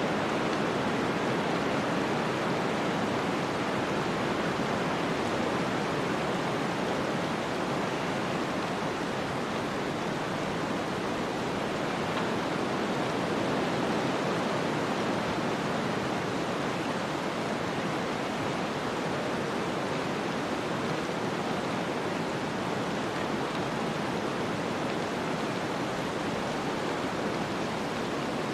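Snowstorm ambience: a steady, even rushing of wind-driven snow, with no gusts or separate events.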